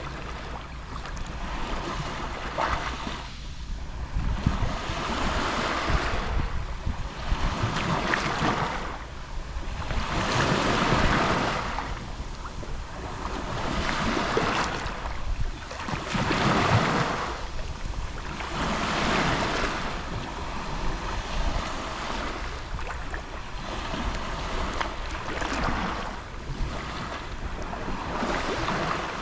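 Gentle sea waves lapping on the shore, each wash swelling and then receding every two to three seconds.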